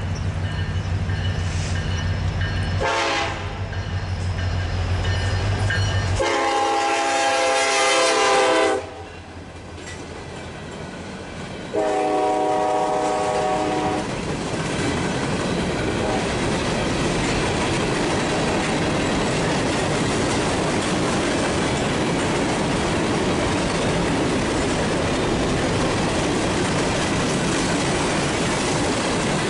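An EMD SD70M-2 diesel locomotive runs with a low rumble as it approaches, and its air horn sounds three times: a brief blast, a long one, then a shorter one. After that the freight train's hopper cars roll past with a steady clatter of wheels on the rails.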